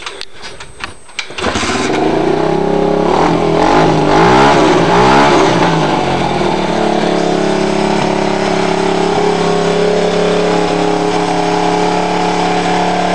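Small 110cc four-stroke dirt bike engine starting about a second and a half in after a few clicks. It is revved up and down a few times, then settles to a steady idle.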